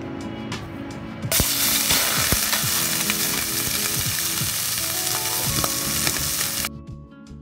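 Raw squid pieces dropped into hot oil in a stainless steel pan, sizzling loudly from about a second in and stopping suddenly near the end.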